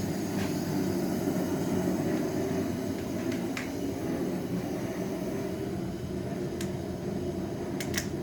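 Steady fan-like whirring hum with a few light clicks, one about three and a half seconds in and a couple near the end.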